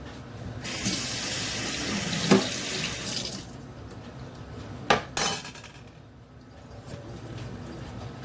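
Kitchen tap running for about three seconds, then stopping, with a few sharp knocks during and after it.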